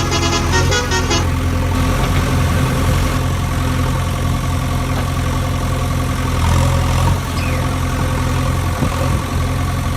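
Vehicle engine idling with a steady low drone. A fast pulsing horn-like tone sounds over it during the first second and then stops.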